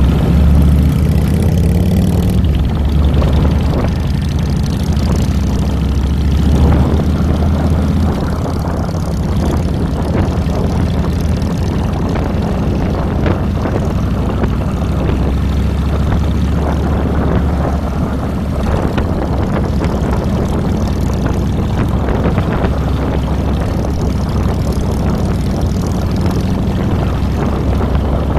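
Harley-Davidson Fat Boy's air-cooled V-twin running steadily, with its low exhaust note close to the handlebar-mounted microphone, a little louder in the first several seconds.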